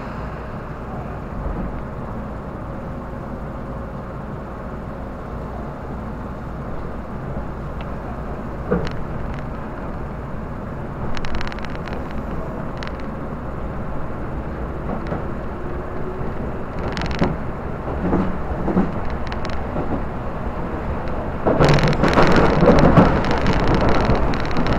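Electric commuter train running on rails, heard from inside the car: a steady rumble with a few sharp clicks of the wheels over rail joints and a faint rising motor whine in the middle. The rumble turns louder and rougher in the last few seconds.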